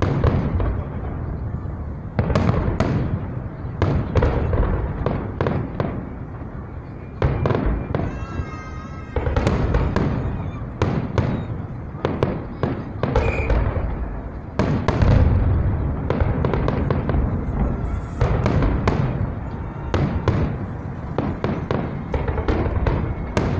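Fireworks display: shell after shell bursting in quick succession, about one bang a second, each with a low boom and crackling tail. A brief warbling whistle sounds about eight seconds in.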